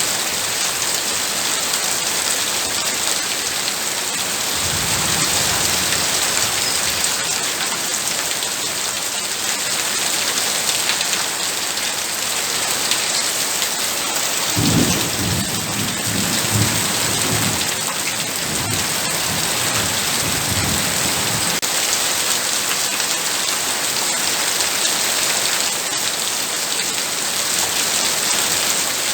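Heavy rain falling steadily, with low thunder rumbling: a short roll about five seconds in and a longer one from about halfway.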